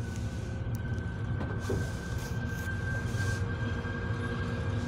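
Passenger train hauled by a TEP70 diesel locomotive accelerating up a grade, heard from inside a carriage: a steady low rumble with a thin high whine that slowly rises in pitch as the train gathers speed. A few short hissing bursts come in the middle.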